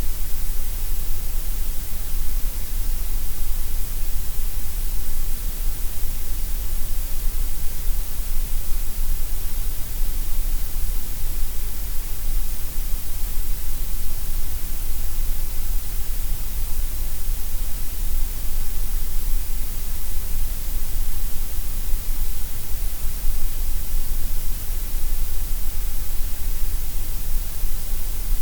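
Synthetic gray noise: a steady, unchanging hiss spread evenly across the whole pitch range, with a strong low rumble at the bottom and bright hiss at the top.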